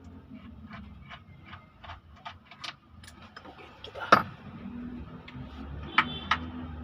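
Hand tools and metal parts clicking during an engine teardown: a regular run of sharp clicks, about three a second, then one loud metallic knock about four seconds in and two more sharp clicks near the end.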